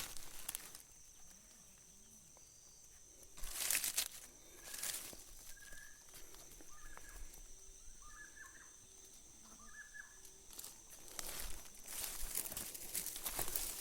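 Footsteps rustling and crunching through leaf litter and undergrowth on a jungle floor, in irregular bursts, heaviest near the end. Between them come faint short high chirps and a thin steady high-pitched insect drone.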